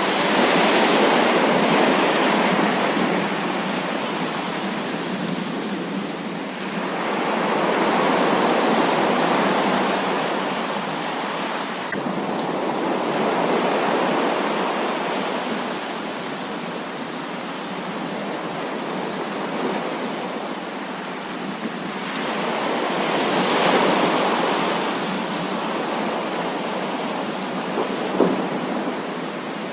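Thunderstorm with heavy rain pouring steadily, its roar swelling and easing every several seconds as thunder rolls through, with one sharp crack near the end.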